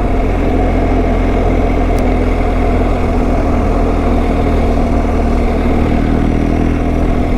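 Motorcycle engine running at a steady cruise while riding, with wind and road noise; the pitch holds level throughout.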